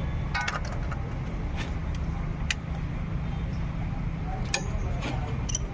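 A motor vehicle engine running at a steady idle, a continuous low hum, with scattered light clicks and knocks over it.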